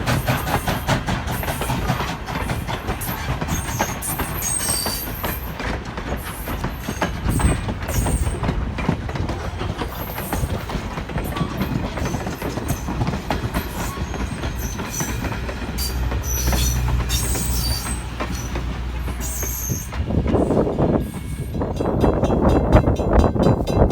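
Strasburg Rail Road No. 89's steam train running past, its wheels clicking steadily over the rail joints.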